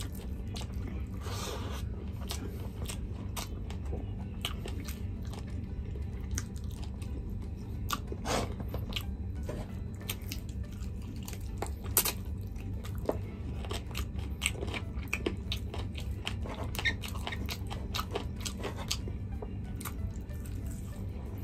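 Close-up chewing and biting sounds of a person eating chicken curry with rice by hand, with many short mouth clicks and smacks all through.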